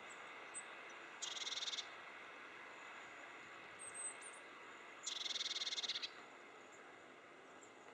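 Animal calls: two short, rapidly pulsed, high buzzy trills about four seconds apart, the second longer, over a steady faint background, with a few thin high chirps between them.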